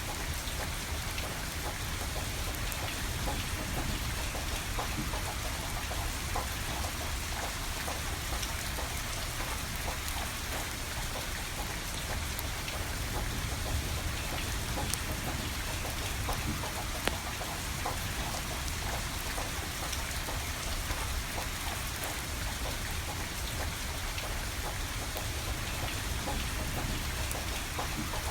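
Steady rain falling, with scattered sharp crackles and pops from a burning wood fire and a low rumble underneath.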